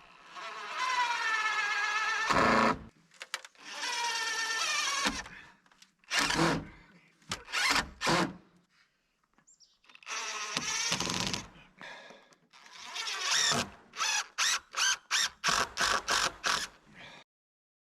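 Cordless power drill driving screws into wood: several long runs of motor whine that rise in pitch as the motor speeds up, then a quick series of short trigger bursts to seat a screw, cut off abruptly near the end.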